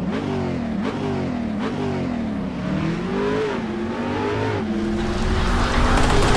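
A motor revving, its pitch rising and falling about once a second, then holding a steady note while a rising hiss builds near the end.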